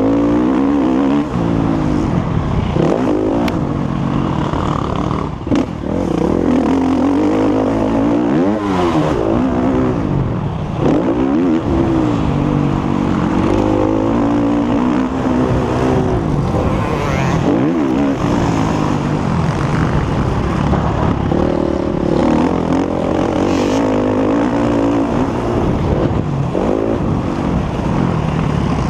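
Motocross bike engine at racing revs, its pitch climbing and dropping over and over as the rider accelerates, shifts and backs off, with a few brief knocks.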